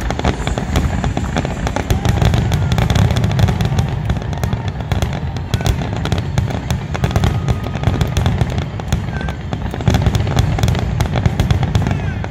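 Aerial fireworks shells bursting in a rapid, dense barrage. Many sharp cracks and bangs come in quick succession and blend into a continuous low rumble.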